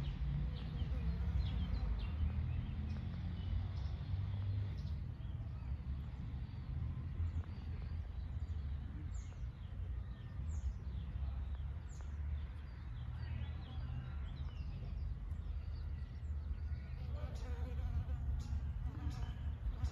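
A buzzing insect, a fly or bee, with a steady low drone throughout. Several short, high, falling bird calls come in the middle.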